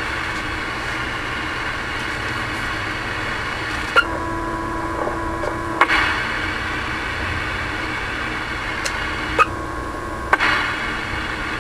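Steady static hiss from a Ranger RCI-69FFC4 ten-meter radio's speaker, broken twice by pairs of microphone-key clicks; the hiss drops out between each pair while the radio is keyed to transmit and returns when the key is released.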